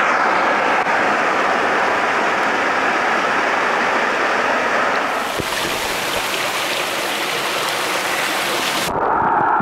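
Waterfall water rushing and splashing, picked up by a waterproof compact camera that is dipping in and out of the water. The rush turns bright and hissing about five seconds in, then drops suddenly to a dull, muffled rush near the end, as heard from under water.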